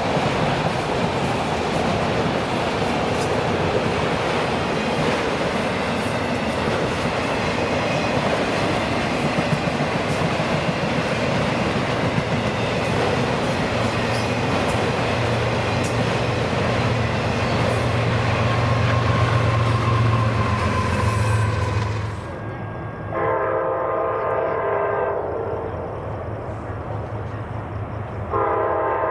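A train rolling past: steady rumble and wheel clatter with occasional clicks, a low engine hum swelling toward the end. It stops abruptly, then a locomotive's multi-chime air horn sounds twice, a short blast and then a second one near the end.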